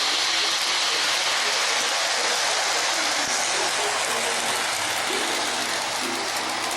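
O-gauge model train running around its track, a steady rolling hiss and rumble from wheels and motor. Faint voices or music sit underneath.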